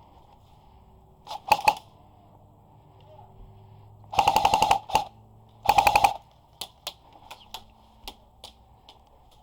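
Airsoft guns firing: two quick shots, then two rapid full-auto bursts, then scattered single shots.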